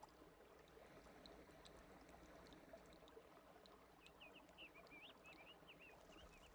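Faint outdoor ambience with a bird giving a quick series of short chirps starting about four seconds in.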